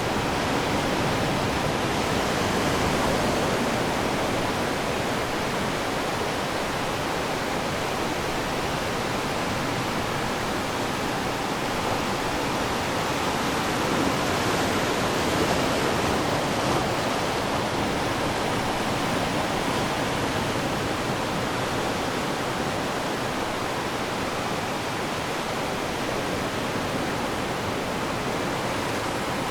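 Ocean waves breaking on a shore, a steady wash of surf that swells louder a few seconds in and again around the middle.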